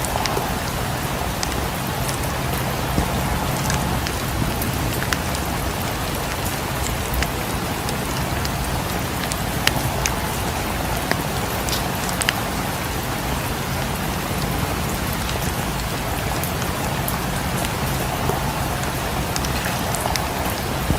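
Steady rain falling on a cabin, with scattered sharp crackles and pops from a wood fire in a fireplace.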